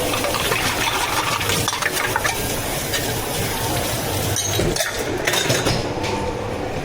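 Drink-making utensils clinking and scraping, with stirring and small knocks against cups and containers over a steady rushing noise.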